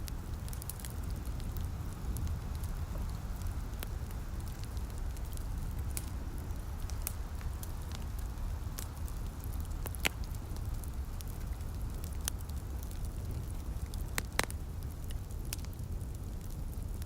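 Wood fire crackling in a fireplace, with scattered sharp pops, two louder ones about ten seconds in and a few seconds later, over a steady low rumble and a light patter of rain.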